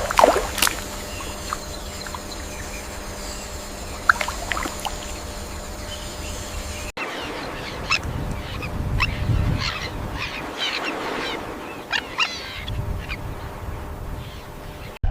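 Short bird calls and chirps over outdoor background noise, with an abrupt change of scene about seven seconds in, after which the calls come thick and fast over a low rumble.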